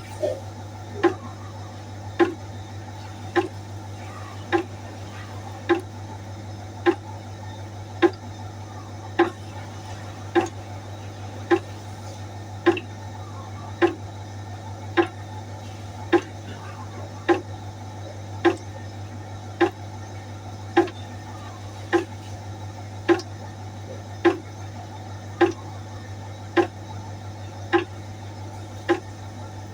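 Water droplets dripping one at a time into a pot, each drop landing with a short plink that rings briefly, about once a second in an even rhythm. A steady low hum runs underneath.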